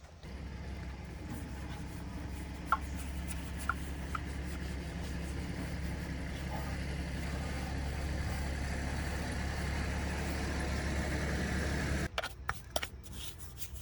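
A motor running steadily with a low hum, cutting off suddenly about twelve seconds in, followed by a few clicks.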